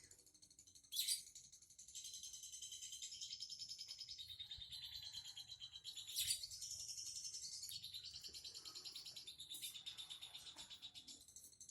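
Songbird chirping in a fast, continuous, evenly pulsed trill, with two louder sharp calls about one second and six seconds in.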